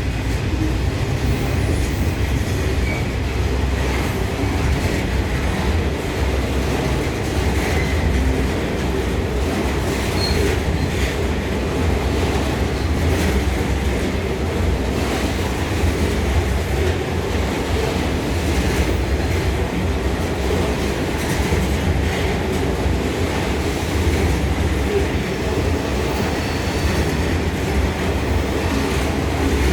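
Loaded coal train passing, a steady heavy rumble of wagons rolling on the rails with the clatter of wheels over rail joints.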